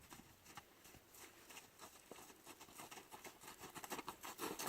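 Faint, scattered steps and rustling that grow louder near the end.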